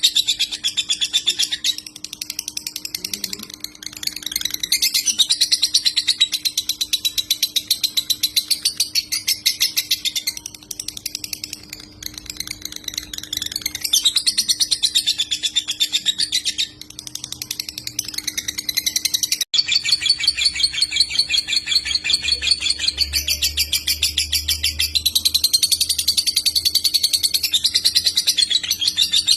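Konslet-style lovebird chattering: a long, rapid trill of high, buzzy notes that runs on almost without pause, easing briefly now and then, with a faint steady hum underneath. The sound drops out for an instant about two-thirds of the way through.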